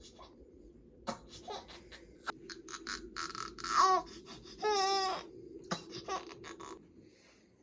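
Three-month-old baby fussing: two short cries a little past the middle, the second one wavering, with rustling and clicks of handling around them.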